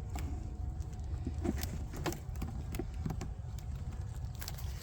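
Scattered light clicks and knocks from hive equipment being handled during a beehive inspection, over a steady low rumble.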